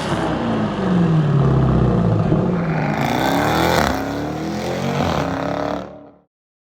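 Jeep Grand Cherokee Trackhawk's supercharged V8 with the mufflers deleted, loud, its pitch falling, then rising and falling twice as it revs. The sound cuts off abruptly near the end.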